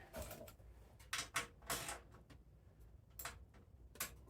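A few faint, scattered clicks and knocks, about five, like tools or small parts being handled.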